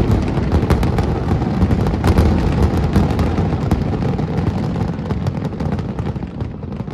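Fireworks display: a dense barrage of rapid shell bursts and crackles over a continuous low rumble, thinning out near the end.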